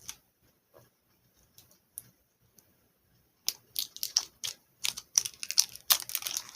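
Plastic toy packaging crinkling and crackling in quick, irregular bursts as it is pulled open, starting about three and a half seconds in after a near-silent pause.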